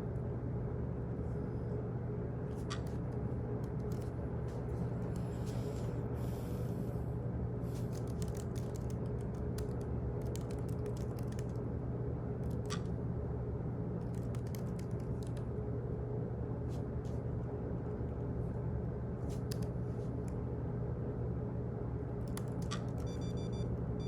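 Office background ambience: a steady low hum and room noise with scattered light clicks and ticks, and a brief high tone near the end.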